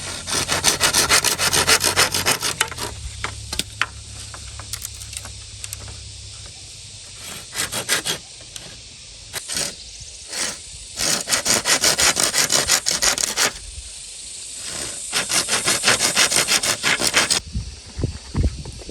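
Hand saw cutting bamboo in several bursts of fast, short strokes with brief pauses between them.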